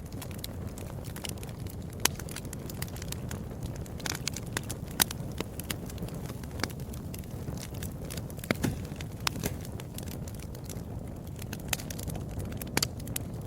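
Wood fire in a fireplace crackling, with irregular sharp pops over a steady low rumble of the flames; the loudest pops come about two seconds and five seconds in.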